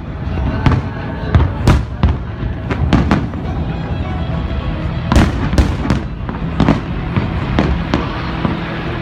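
Aerial fireworks bursting: about ten sharp bangs in irregular succession over a continuous rumble of the barrage, with music playing underneath.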